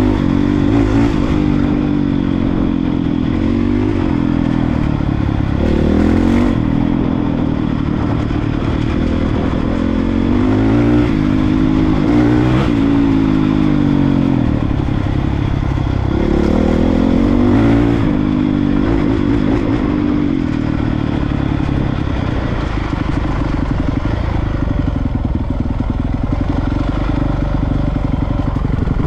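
Honda CRF450R dirt bike's single-cylinder four-stroke engine under riding load, its pitch rising and falling repeatedly as the throttle is opened and closed.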